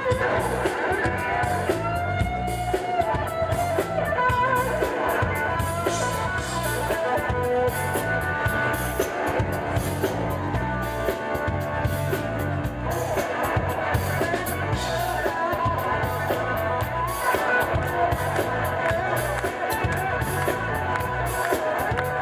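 Live band playing an instrumental disco-funk passage: electric guitar and melody lines over a steady drum-kit and bass beat.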